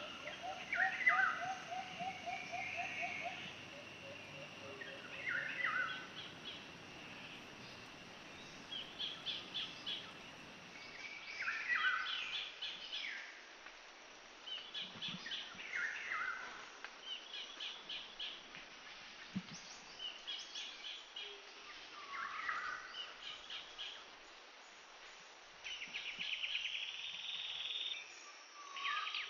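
Songbirds chirping and trilling, with short calls and quick rattling trills repeating every second or two over a faint steady background hiss.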